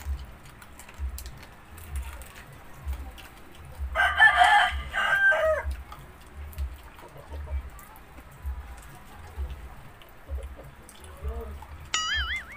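A rooster crows once, about four seconds in, in a single call of about a second and a half that falls away at the end. A short warbling high-pitched call follows near the end.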